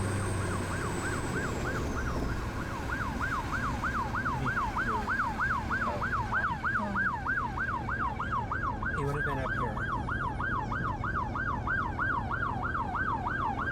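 Emergency vehicle siren in yelp mode, its pitch sweeping rapidly up and down about three to four times a second, over the steady low hum and road noise of a vehicle.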